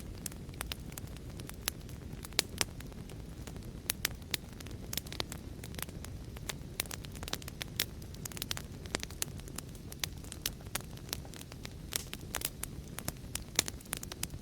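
Wood fire crackling: frequent, irregular sharp pops and snaps over a low steady rumble of burning.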